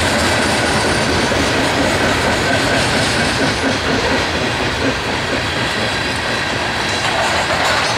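Coal hopper cars of a freight train rolling past at steady speed: a continuous rumble and clatter of steel wheels on rail.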